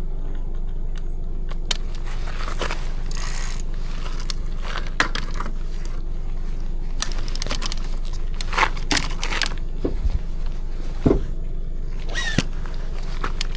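Scattered metallic clinks and rattles over a steady low rumble, with several sharp clicks clustered in the later part.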